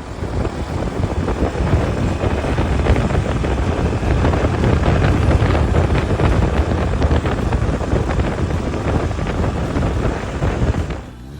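Loud wind buffeting the microphone of a rider on a moving dirt bike, with the motorcycle's running noise mixed in. It starts and stops abruptly.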